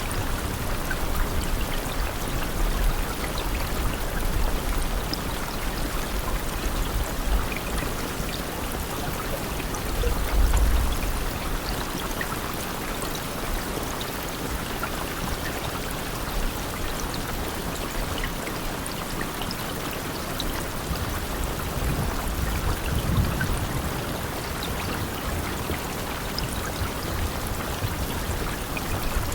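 Steady rain falling, an even hiss with scattered drops, and a low rumble that swells briefly about a third of the way in and again about three-quarters through.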